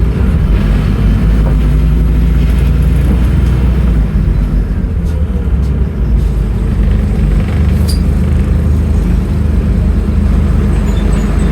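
Scania N310UA articulated city bus's five-cylinder diesel engine running under way, a steady low rumble, with a brief dip in level about six seconds in.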